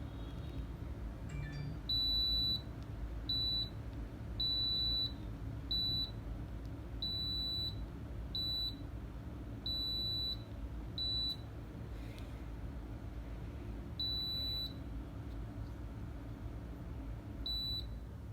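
Reetech mini split air conditioner beeping about ten times at irregular intervals, each a single high beep, some short and some longer, as the unit acknowledges button presses. A steady low hum runs underneath.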